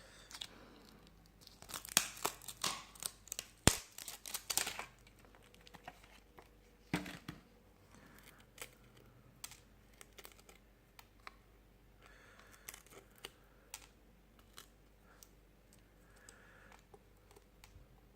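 The smashed screen of a Sony Xperia XA2 Ultra being pried off its frame: a dense run of sharp cracks and crackles of breaking glass and adhesive from about one and a half to five seconds in, a knock around seven seconds, then scattered small clicks and scrapes.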